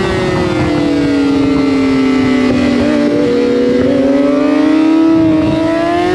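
Racing motorcycle engines running at high revs. The pitch sinks slowly, then climbs again, and a second engine's note crosses it about halfway through.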